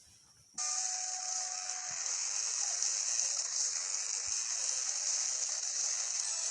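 A steady, loud hiss that starts abruptly about half a second in and holds evenly, sitting high with little low end.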